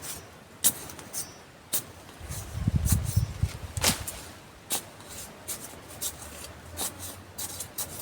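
About a dozen sharp, irregular snaps and clicks, with a brief low rumble about two to three seconds in.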